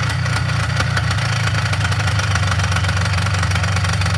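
Polaris Trail Boss 350L ATV engine idling steadily with a fast, even firing rhythm, left running to clear out; its carburetor is judged by the owners to need cleaning.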